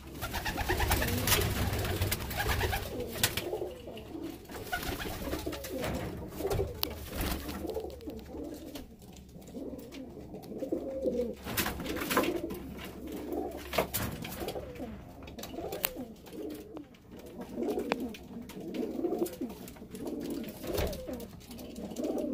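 Domestic cock pigeons cooing over and over in a small loft, a display that the keeper takes for the males sorting out who is boss. Scattered sharp knocks and scuffles sound among the coos.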